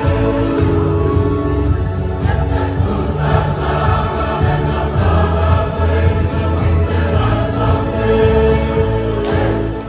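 Church choir singing a hymn over a strong bass accompaniment; the music stops just before the end.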